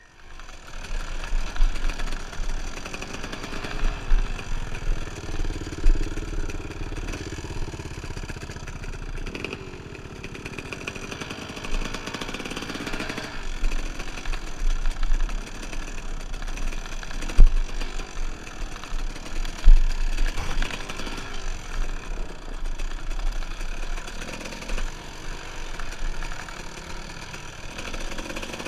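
Dirt bike engine running while riding, its pitch rising and falling with the throttle. Two sharp knocks a little past halfway.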